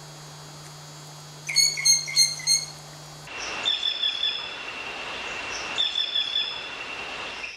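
Birds calling, one after another: a quick run of four short whistled notes about one and a half seconds in, then a different bird's song, a long high steady whistle with shorter notes over it, repeated about two seconds apart.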